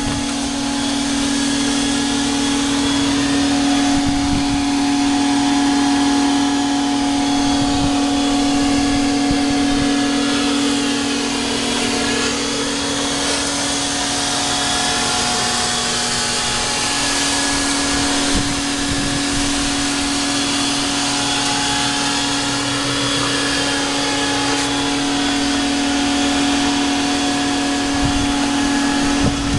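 1930 Ford hot rod's flathead V8 running at a steady idle through short open exhaust pipes: a constant loud drone with a steady whine, dipping slightly in pitch about halfway through.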